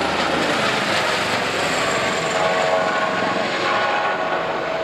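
Airbus H145M helicopter in flight: a steady rush of rotor and twin turboshaft engines, with a whine of several high tones over it.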